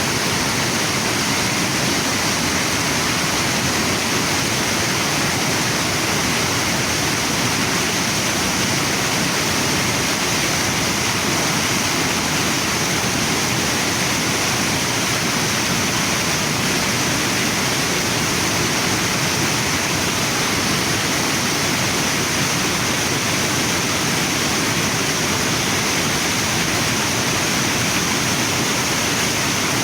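Waterfall and river water falling and flowing, a constant, even rush with no pauses or changes.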